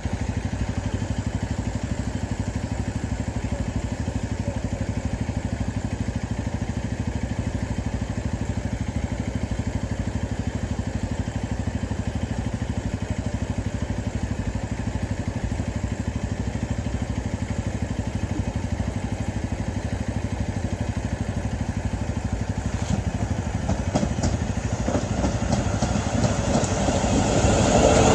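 Class 450 electric multiple unit train giving a steady low hum, growing louder with rattling clatter near the end.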